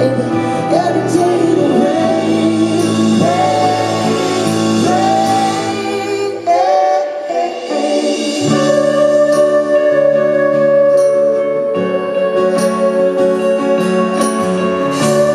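Live concert music: a singer's wordless vocal runs over sustained keyboard chords, giving way after about six seconds to held chords that change every few seconds.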